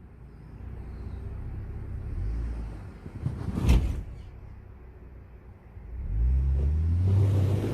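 Jeep Gladiator's engine running low with a sharp knock about three and a half seconds in. Near the end the engine revs up and holds at a higher, louder pitch.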